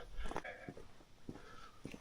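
Faint footsteps of a hiker walking on a mountain trail, a few soft, irregular steps.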